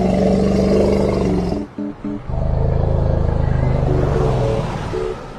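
Two long, low, loud elephant rumbles, the second starting about two seconds in, with short notes of background music between them and near the end.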